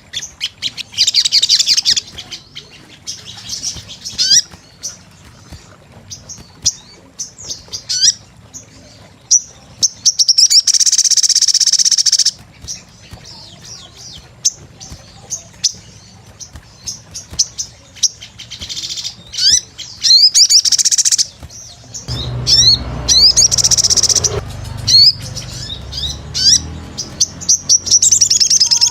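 Sogon sunbird singing: a quick run of high, short chirps and sweeping notes, broken by several loud, dense trills, the longest and loudest about ten seconds in. A low rumble lies under the song for a few seconds late on.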